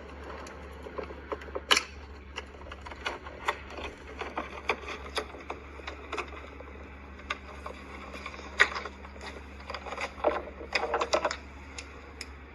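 Irregular small clicks and taps of plastic parts being handled and unplugged inside a water purifier, as its flow sensor connector and fittings are worked loose, over a steady low hum.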